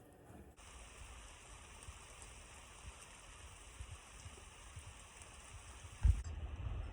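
Faint, steady hiss and patter of rain or sleet falling on surfaces, with small scattered ticks. About six seconds in there is a sudden low thump, then a louder low rumble.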